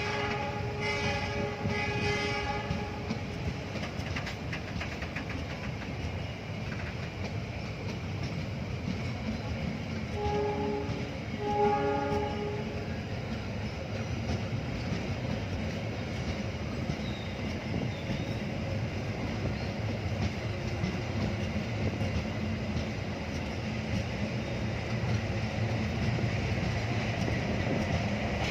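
Train horn sounding a series of short blasts in the first few seconds, then two more blasts about ten seconds in, over the steady rumble of a train running on the tracks.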